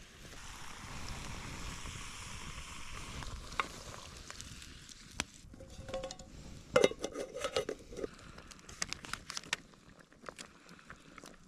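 Food frying in a pan over a bonfire, a steady sizzle for the first few seconds. Then a utensil stirring and scraping, with scattered clicks and a burst of clattering a little past the middle.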